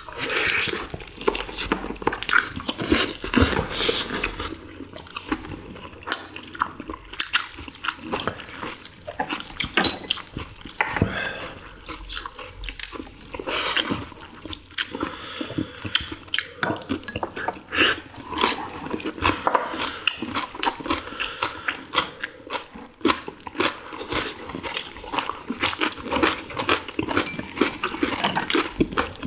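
Close-up mukbang eating sounds: several people chewing boiled ginseng chicken (samgyetang) with open-mouthed, wet smacking, a dense, irregular run of short clicks and smacks.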